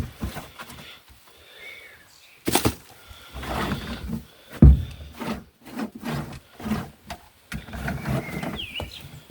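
A metal scraper prising softened bitumen sound-deadening off a car's steel floor pan: irregular scraping and tearing with a couple of sudden knocks, the loudest about a second and a half and four and a half seconds in.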